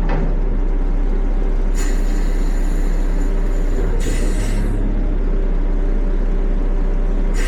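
Peterbilt 520 garbage truck's diesel engine running steadily while reversing. There are two short hisses of air, about two and four seconds in.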